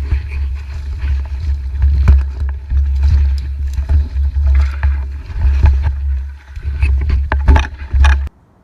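Heavy wind buffeting on a GoPro's microphone while cycling, an uneven low rumble broken by many sharp knocks and rattles. The camera is in a housing that muffles and distorts the sound.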